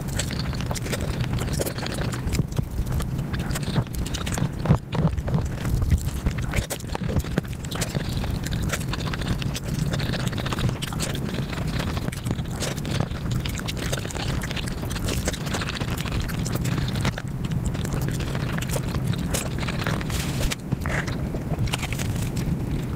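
Mukbang eating sounds played at five times speed: a rapid, unbroken patter of chewing, smacking and crunching clicks as chicken, biryani rice and flatbread are eaten, over a steady low hum.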